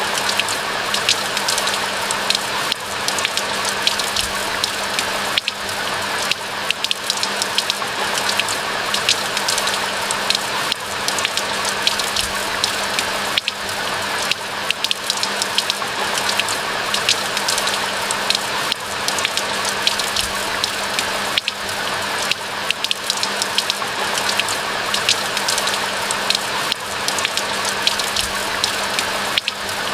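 Steady rain falling, a dense hiss of many small drop ticks.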